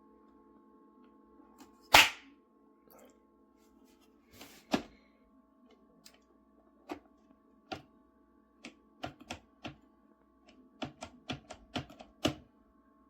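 Single-serve pod coffee maker brewing: a faint steady hum with irregular sharp clicks and knocks over it. One loud knock comes about two seconds in, and a quick run of clicks comes near the end.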